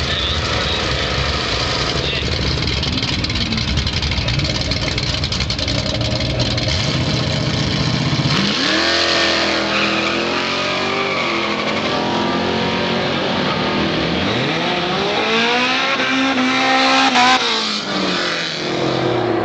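Ford Maverick drag race car's engine making a quarter-mile pass. It rumbles heavily at first, then from about eight seconds in revs hard, its pitch climbing and dropping several times through the gears. The pitch falls away near the end.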